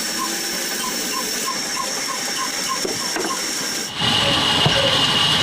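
Old 22 hp diesel engine running steadily, its regular beat coming about three times a second. The sound gets louder and fuller about four seconds in.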